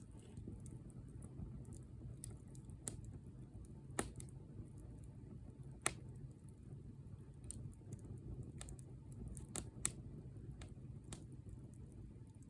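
Wood campfire crackling: irregular sharp pops and snaps, three of them louder than the rest, over a low steady rumble.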